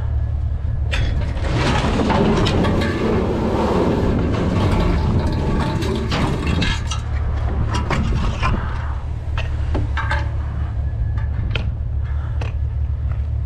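Steady low hum of an idling vehicle engine. Over it, a dense stretch of rustling and clattering handling noise runs from about one to seven seconds in, then gives way to scattered sharp knocks and clicks.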